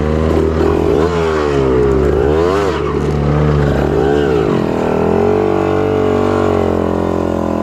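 Trail motorcycle engine revved up and down several times over a steady lower engine drone, then held at a steadier pitch near the end.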